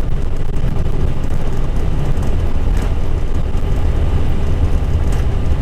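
Steady low rumble inside an Airbus A320 cockpit during the landing roll, from the engines after reverse thrust and the wheels rolling on the runway as the airliner decelerates, with a couple of faint knocks.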